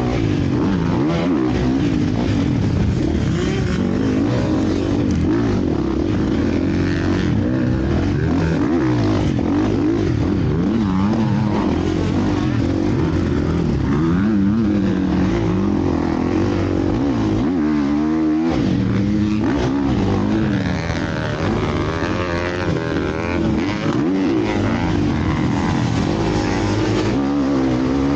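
Several motocross bikes racing together, their engines revving up and down in overlapping rising and falling pitches.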